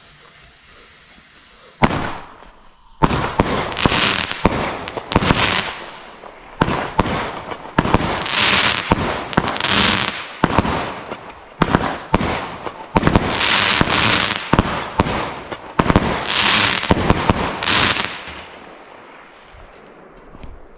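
Weco Hellboy firework battery (cake) firing. A single shot comes about two seconds in, then a rapid run of shots and bursts for about fifteen seconds, which dies away near the end.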